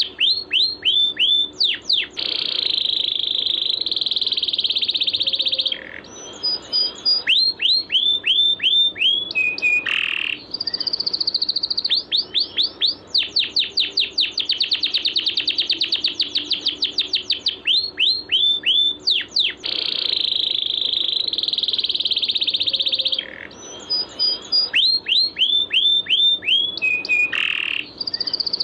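Songbird song on a masteran tutoring recording: runs of quick, sharply falling whistled notes alternating with long, buzzy trills a few seconds each.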